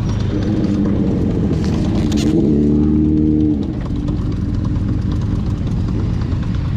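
Motorcycle engine pulling under throttle, its pitch climbing for about three and a half seconds, then dropping abruptly and running on steadily at a lower pitch.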